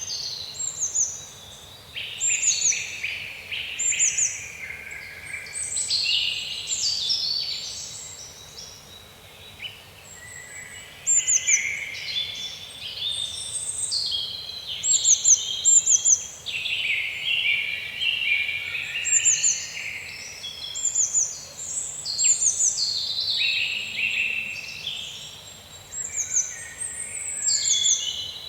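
Woodland birdsong: several small birds singing at once, with repeated quick downward-sweeping chirps and trilled phrases over a faint steady hiss.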